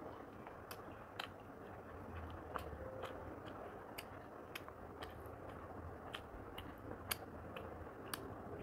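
A person chewing a mouthful of rice and chicken curry, close to a clip-on microphone. About a dozen sharp, irregular clicks come through, over a faint low hum.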